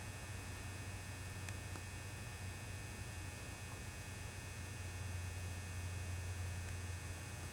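The magnetic ballast of a 400-watt high-bay mercury vapor lamp humming steadily while lit. The hum is low and even, with faint steady high tones above it.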